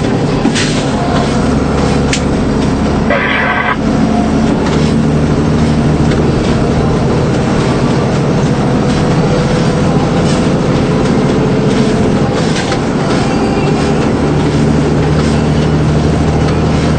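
DAF 75 lorry on the move: a steady engine drone with road noise. A short higher sound comes about three seconds in.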